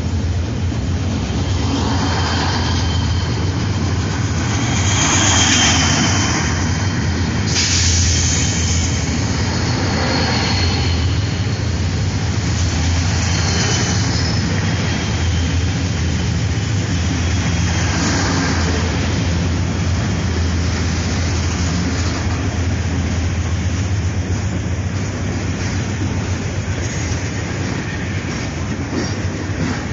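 Freight train's boxcars rolling past close by: a loud, steady rumble of wheels on rail, with thin high wheel squeals coming and going in the first half.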